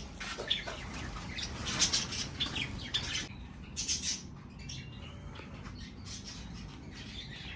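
Parrots in an aviary giving a run of harsh squawks in the first half, then fainter, shorter chirps.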